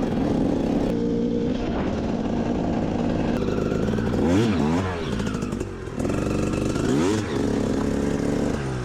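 Motorbike engine running while riding, its pitch rising and falling as the throttle is worked, with revving twice in the middle.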